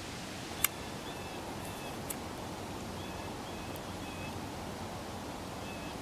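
Small songbird giving short, high chirps, repeated in little pairs and runs, over a steady low rushing background. A sharp click comes about half a second in and a fainter one at about two seconds.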